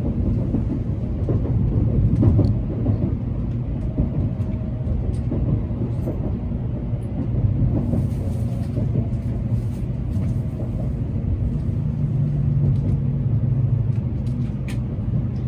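Tokaido Shinkansen train running, heard from inside the passenger cabin: a steady low rumble with a faint hum and a few light clicks.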